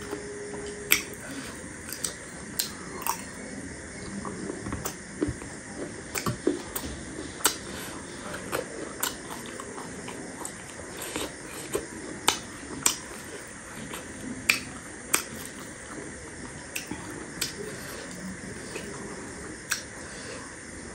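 Crunchy chewing of chatpate, a spicy puffed-rice snack: irregular sharp crackles and snaps, about one or two a second.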